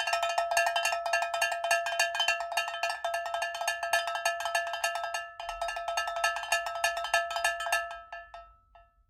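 A bell struck rapidly and repeatedly, several strikes a second, each ringing at the same pitch. It breaks off briefly about five seconds in, resumes, then fades out near the end.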